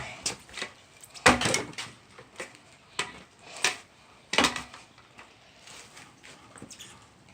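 Scooter deck clattering on wet pavement during trick attempts: a series of sharp knocks and clacks, the loudest about a second in, with smaller clicks between and quieter toward the end.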